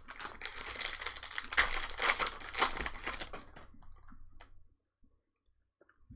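Trading-card pack wrapper crinkling and tearing as a pack is opened by hand. It thins to a few light clicks at about four seconds and stops.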